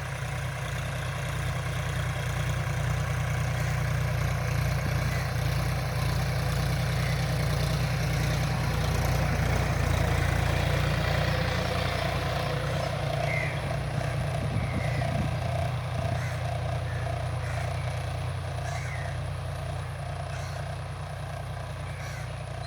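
John Deere 5045D tractor's three-cylinder diesel engine running steadily, growing louder towards the middle and then easing off again.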